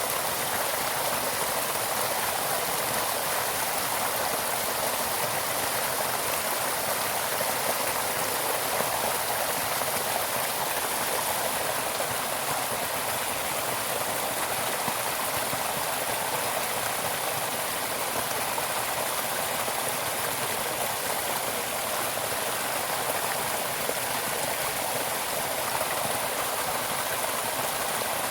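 Flowing stream: a steady, unbroken rush of running water.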